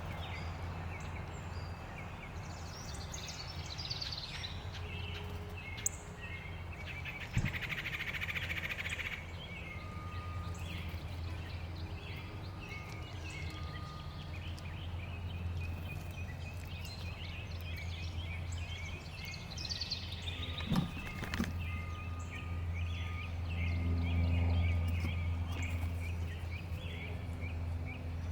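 Songbirds chirping in many short calls over a steady low rumble, with a few sharp clicks.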